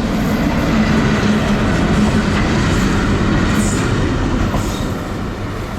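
Twin WAP-4 electric locomotives, running light with no train, passing close by with wheels rumbling and clattering on the rails. The sound is loudest about one to two seconds in and eases slightly toward the end.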